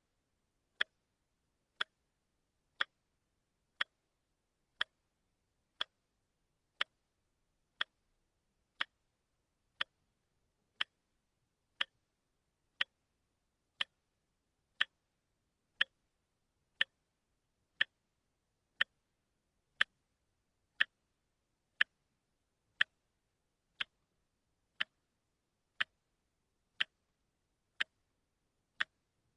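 Watch ticking steadily, one sharp tick each second, the even once-a-second beat of a quartz movement.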